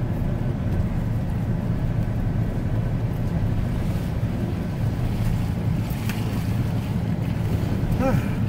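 Pickup truck driving over a rough, wet dirt forest road: a steady low rumble of engine and tyres working through mud and ruts.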